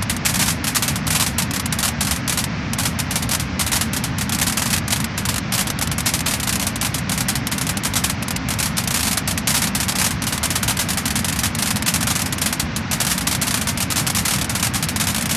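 Wood fire crackling and popping: a dense, irregular run of small snaps over a steady rushing noise.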